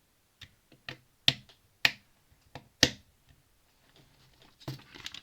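Plastic Lego bricks clicking as pieces are pressed together, about six sharp clicks in the first three seconds, then softer rattling of pieces being handled.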